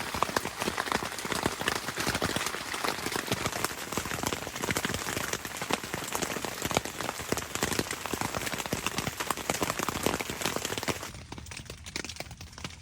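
Rain falling in a dense patter of drops, thinning and getting quieter about eleven seconds in.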